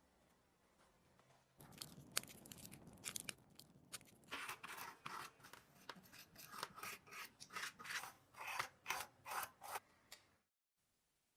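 A hand tool working a surface in a run of short rasping strokes, about two to three a second, stopping abruptly near the end.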